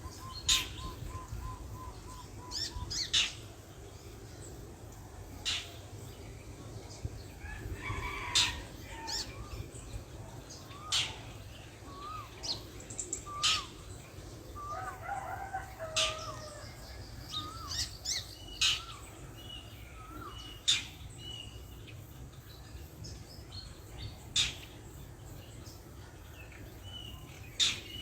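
Birdsong and bird calls: sharp chip notes every few seconds, short curling whistled notes, and a quick even run of about eight notes near the start.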